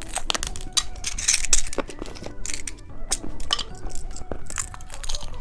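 Rapid crackling and clicking of plastic candy packaging and hard candy pieces being opened and handled.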